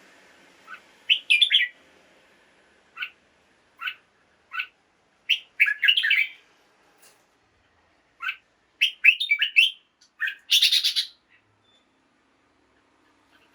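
Red-whiskered bulbul singing in bouts of short, bright chirping phrases separated by short pauses, with one rougher, noisier call about ten and a half seconds in.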